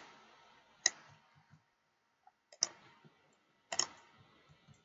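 Computer mouse clicking: four or five short sharp clicks spaced about a second apart, some in quick pairs.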